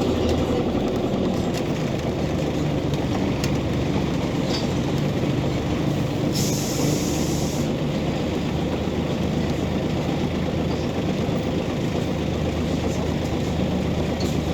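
Scania OmniCity city bus on the move, its diesel engine running steadily under road noise. A brief hiss comes about six seconds in.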